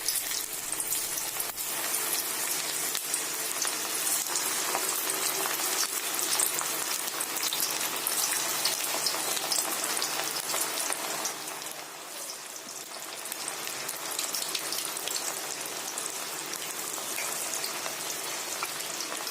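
Cabbage-and-peanut patties deep-frying in hot oil: a steady sizzle with crackling spatter, easing for a moment about twelve seconds in.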